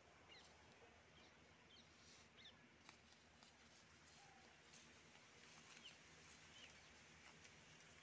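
Near silence, with faint, scattered short bird chirps and one soft click about three seconds in.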